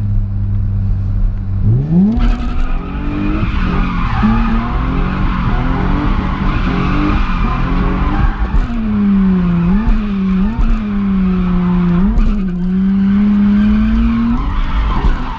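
Drift car setting off on a run: the engine goes from idle to a sharp rev about two seconds in, then is held at high revs with the tires squealing as the car slides. The revs dip and pick up again several times.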